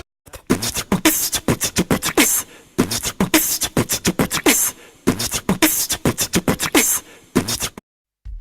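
Beatboxing: rapid rhythmic clicks and sharp strokes mixed with short falling vocal blips, in three phrases of about two seconds each. The sound cuts out at the start and again briefly near the end.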